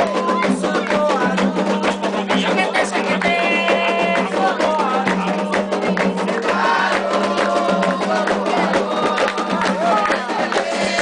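Candomblé ritual music: hand drums and a struck percussion instrument playing a fast, dense rhythm, with voices singing over it.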